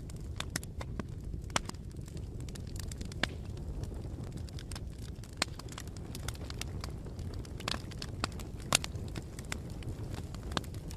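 Campfire burning, with a steady low rumble and irregular sharp crackles and pops of burning wood, a few louder snaps among them.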